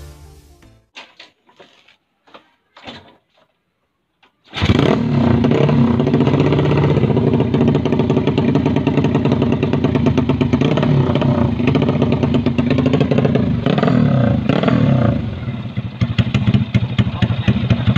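Yamaha Jupiter Z road-race motorcycle engine catching about four and a half seconds in, then running loud and steady through its racing exhaust. The revs change a few seconds before the end, and the exhaust turns choppier.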